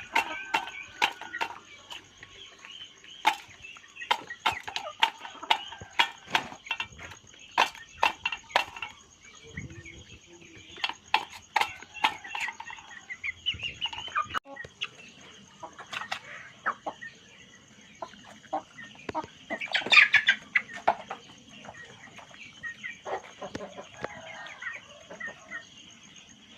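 Chickens clucking, mixed with many short sharp ticks, and a louder squawk about twenty seconds in. A faint steady high whine runs underneath.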